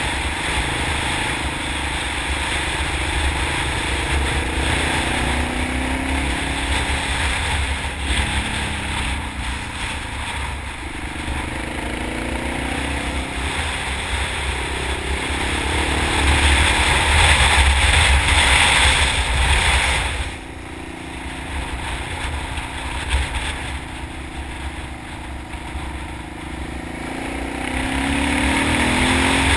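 Honda XR650 supermoto's single-cylinder four-stroke engine under way, its pitch repeatedly rising and falling as the rider works the throttle and gears through bends, with a rush of wind over the helmet-mounted microphone. About two-thirds through the throttle drops off and the sound falls away, then it builds again near the end.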